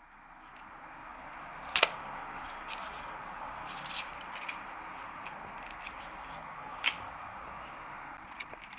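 Handling of smartphone packaging during an unboxing: a steady hiss with a few sharp clicks and taps, the loudest a double click about two seconds in.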